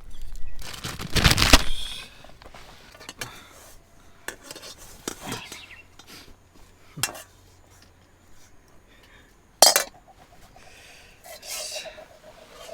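Camp cookware and utensils being handled: scattered clinks and knocks of metal pots and dishes, with a louder clatter about a second in and a sharp clink just before ten seconds.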